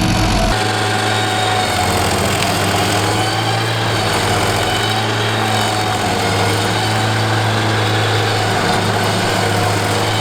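Rayco RG55 stump grinder's engine running steadily under power, a constant mechanical drone. The low rumble shifts abruptly about half a second in.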